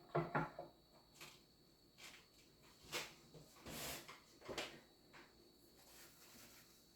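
Objects being handled and set down: two knocks right at the start, then scattered light clicks and a short rustle about four seconds in.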